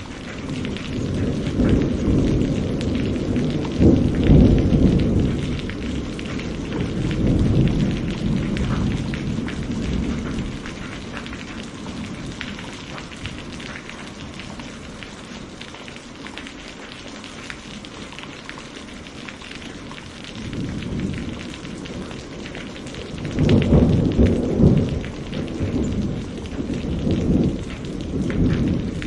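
Steady rain with rolling thunder. A long low rumble swells about a second in and dies away after about ten seconds; another rumbles in about two-thirds of the way through and runs until near the end.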